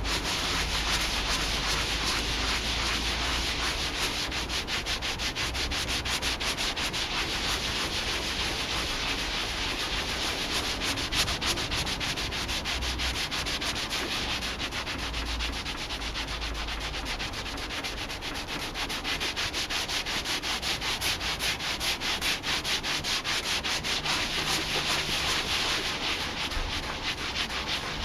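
A rag soaked in methylated spirits rubbed briskly back and forth over the chair's cracked leather, a continuous hissing scrub made of rapid, even strokes. It is washing the dark surface colour and sealer off the hide.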